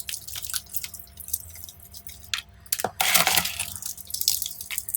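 Fridge-chilled giant water-absorbing gel beads being squeezed and crushed by hand, crackling crisply in many small sharp cracks with wet squelching. About three seconds in comes one louder squish-and-crunch as a bead gives way.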